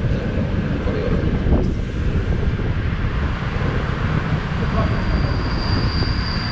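Passenger train running into a station, heard from an open carriage window: a steady rush of wind buffeting the microphone over the rolling noise of the wheels. Near the end a thin, steady high-pitched squeal from the running gear sets in as the train slows for the stop.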